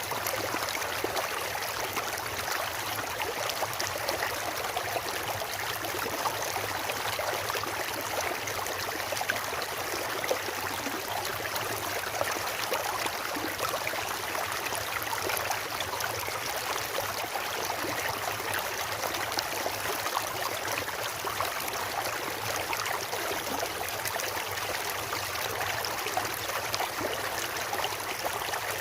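Stream water flowing over rocks in a steady, even rush.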